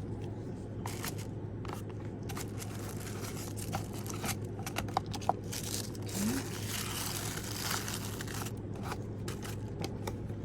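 Packaging crinkling and rustling as it is handled, with scattered light taps and scrapes and a denser stretch of crinkling about six to eight seconds in.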